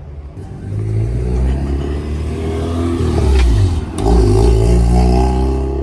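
A car engine accelerating hard, its pitch climbing over the first three seconds, dropping briefly about four seconds in, then pulling loudly again.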